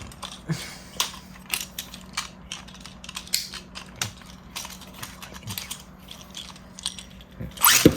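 Scattered plastic clicks and rattles of Beyblade tops being fitted onto string launchers. Near the end comes a fast rising whir as a launcher's string is ripped to launch a Beyblade.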